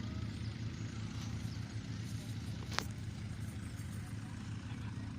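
A steady low engine rumble with a sharp click almost three seconds in.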